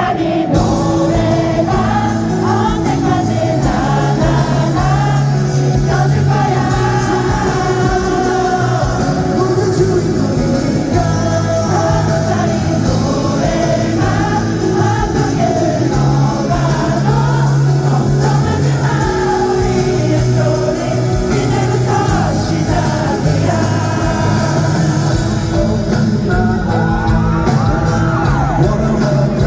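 A pop song sung live over band accompaniment in a concert hall, recorded from the audience.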